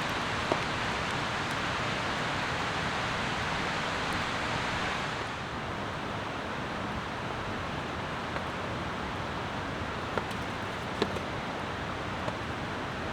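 Steady rain falling, an even hiss with a few scattered sharp ticks; the hiss drops slightly about five seconds in.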